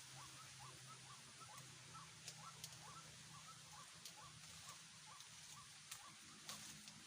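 Faint animal call, a short note repeated evenly about two to three times a second, with a few scattered clicks.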